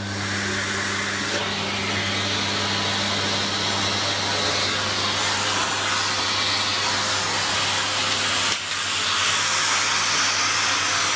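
Bosch Relaxx'x ProSilence bagless vacuum cleaner just switched on and running: the motor spins up over the first couple of seconds into a steady hum under a rushing of air. The sound dips briefly about eight and a half seconds in.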